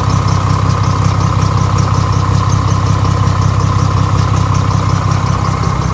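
Mack MR688S truck's diesel engine idling close by, with an even rapid pulsing on top. The idle is not smooth and sounds like an exhaust leak, which the owner puts down to a cracked exhaust manifold.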